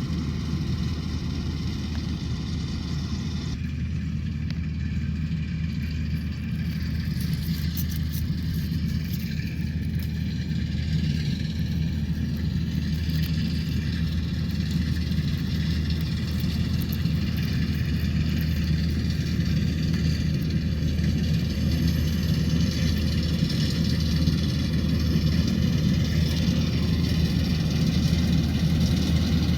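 Rice combine harvester's engine running steadily under load, with a low drone and some mechanical clatter, growing slightly louder toward the end.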